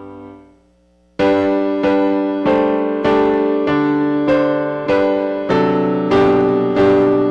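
Piano playing hymn chords. A held chord dies away into a short pause about a second in, then steady block chords are struck about once every two-thirds of a second.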